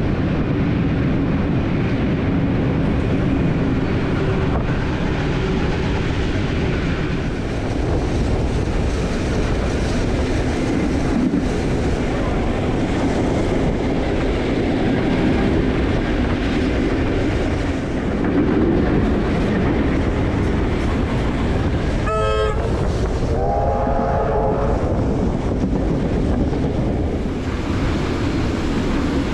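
Steady rumble and wheel clatter of a steam-hauled heritage train running along the track, heard from on board through an open carriage window, with an electric train running alongside on the next track. A little over three-quarters of the way through, a train horn gives two short blasts.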